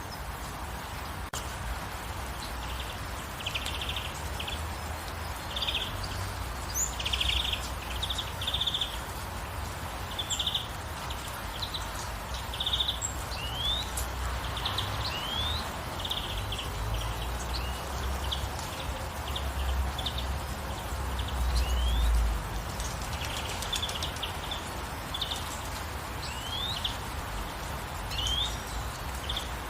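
Songbirds chirping in short repeated phrases and quick rising whistles, over a steady hiss of light rain. A low rumble sits underneath and swells briefly about two-thirds of the way through.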